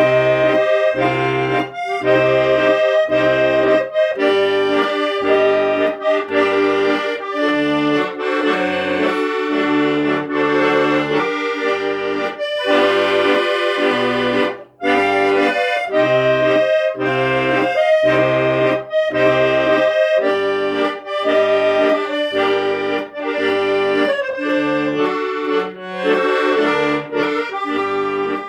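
Accordion music: a melody played over a regular beat of bass notes and chords.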